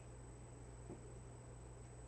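Near silence: room tone with a steady low hum and a faint high whine, and one faint tap about a second in.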